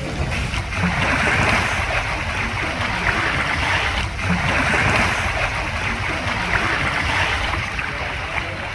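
Water rushing and sloshing over a steady low rumble, swelling louder twice.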